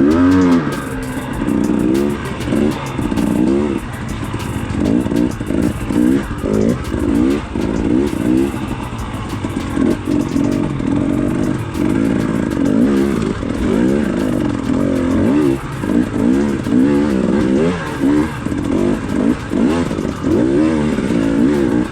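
Dirt bike engine revving up and down in short throttle bursts while picking through a rock garden, its pitch rising and falling every second or so.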